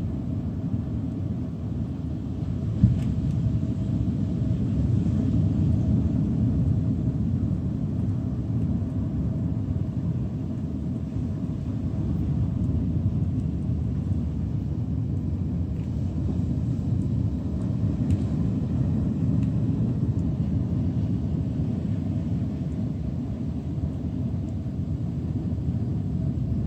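Steady low outdoor rumble with no distinct events apart from a brief click about three seconds in.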